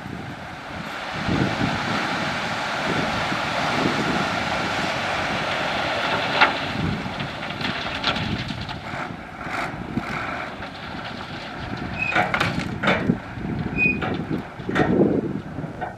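Heavy diesel construction machinery running steadily, with wind buffeting the microphone. Scattered sharp clicks and knocks come in the second half.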